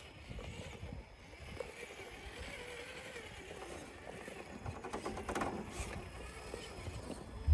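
RC crawler truck's small electric motor whining as it drives over rough ground, with a low rumble, and a run of clattering clicks about five seconds in.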